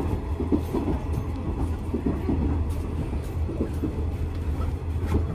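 Running noise of a moving diesel railcar heard from inside the carriage: a steady low rumble with small irregular knocks and rattles.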